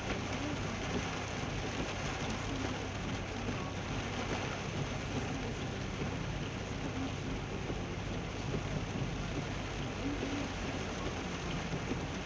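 Heavy rain falling steadily on a moving car, with a constant low hum from the engine and road underneath.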